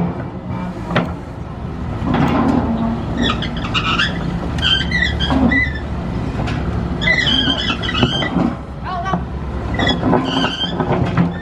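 A heavy machine's engine running steadily, with high, wavering squeals over it from about three seconds in.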